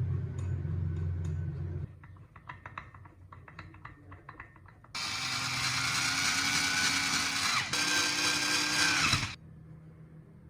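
A low hum for the first two seconds, then a run of small clicks and taps. Then a small power tool runs loudly for about four seconds, with a brief dip partway through, and winds down with a falling pitch.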